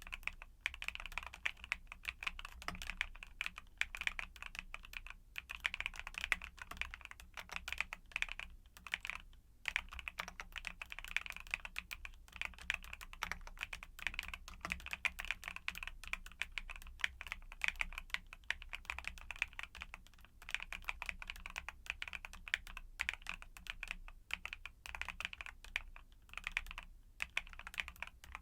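Fast, continuous typing on a YUNZII mechanical keyboard with Cocoa Cream switches: a dense stream of crisp keystroke clacks, broken by a few brief pauses.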